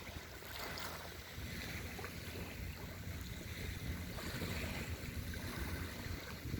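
Wind rumbling on the microphone over a steady wash of sea surf at the shore.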